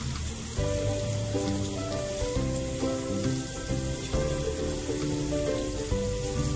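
Chicken pieces sizzling as they fry in a pan, with background music playing held notes over the crackle.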